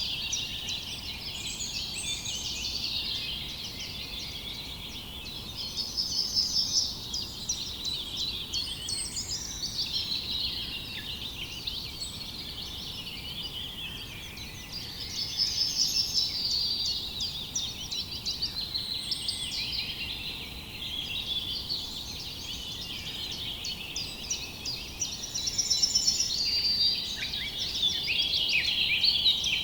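A chorus of many small birds chirping and twittering at once, dense and continuous, swelling louder a few times.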